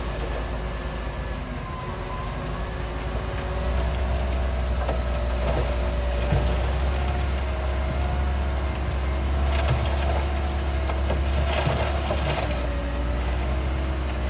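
Heavy diesel earthmoving machinery running with a deep, steady drone that grows louder about three and a half seconds in. Scattered metallic clanks and rattles come through in the middle of the stretch.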